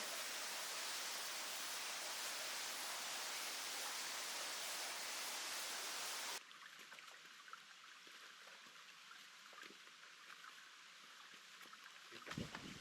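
Steady rush of flowing creek water, which cuts off suddenly about six seconds in to a much quieter background with faint scattered ticks. A few low thumps near the end.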